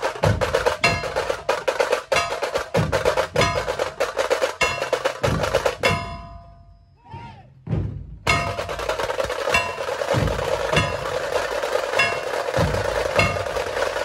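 Dhol-tasha troupe drumming: rapid cracking tasha rolls over booming dhol strokes in a fast, steady rhythm. The drumming breaks off about six seconds in and starts again about two seconds later.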